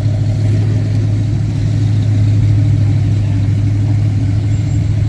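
Classic car engine running close by with a steady, deep rumble. It holds an even pitch without revving.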